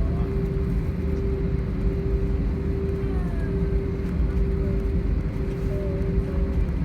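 Airbus A320 cabin noise with the engines running: a steady low rumble with a constant hum tone over it.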